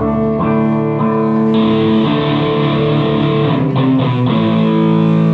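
Electric guitar through an amplifier, struck chords left ringing and changed every second or so, with a new chord about four seconds in.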